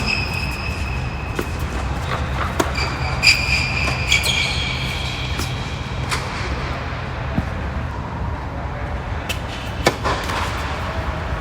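Tennis balls being struck with rackets during a doubles rally: sharp, irregularly spaced pocks about every one to two seconds. Under them runs a steady low rumble of traffic, and a high-pitched squeal is held through the first few seconds.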